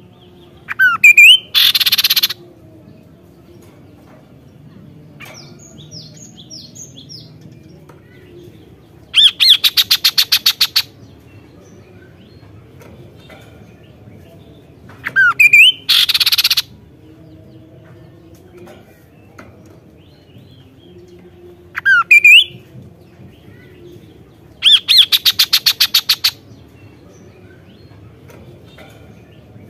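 Kaso-kaso bird calling in loud repeated bouts. Each bout is a couple of short rising whistles followed by a harsh, buzzy rattle lasting about a second, and it comes five times, roughly every six to seven seconds. Fainter chirps sound in between.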